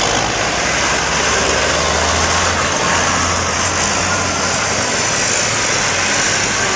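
Tractor engines running in a steady, continuous drone, heard as tractors move along together in a procession.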